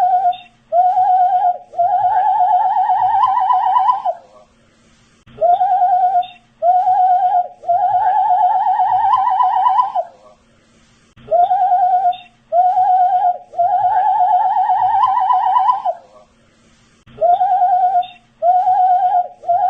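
A man whistling the same phrase over and over: two short notes, then a long wavering note that creeps slightly upward. The phrase repeats about every six seconds.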